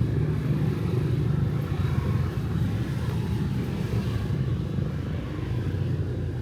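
Steady low rumble of city street traffic, cars and motorbikes, with no single vehicle standing out.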